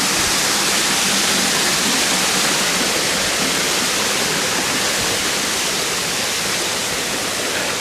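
Steady rush of water pouring down an artificial, pumped park waterfall.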